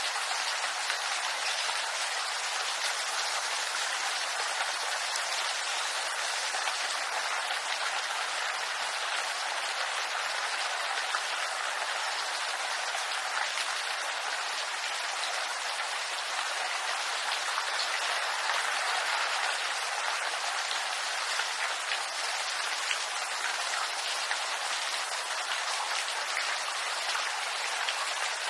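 Steady rain falling on bamboo leaves: an even hiss made of many small drop impacts, with no change in strength.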